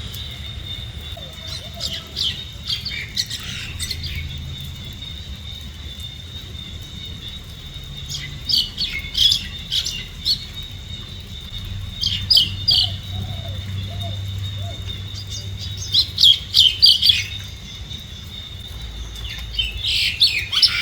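Bird calling in five short bursts of quick, high chirping notes spread a few seconds apart, over a steady high-pitched whine.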